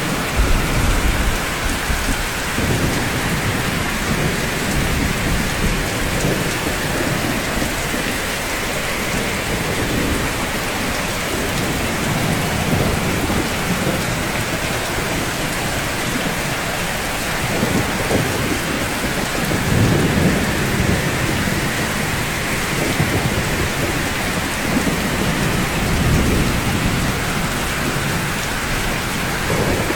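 Steady, dense rain falling on rooftops, with low rumbles of distant thunder swelling and fading several times, strongest about twenty seconds in.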